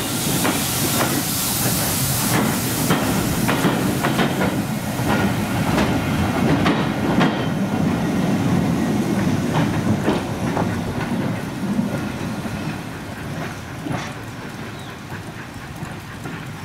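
Passenger coaches rolling past, wheels clicking regularly over the rail joints with a hiss of steam from beneath the coaches, the sound fading as the train draws away.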